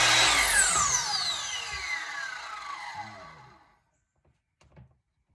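Electric miter saw running, then switched off about a third of a second in. Its blade winds down with a falling whine that fades out over about three seconds, followed by a couple of light knocks.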